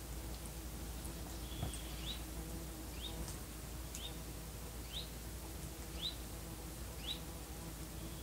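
A bird calling outdoors: a short, thin, rising chirp repeated about once a second, six times, over a faint steady low hum.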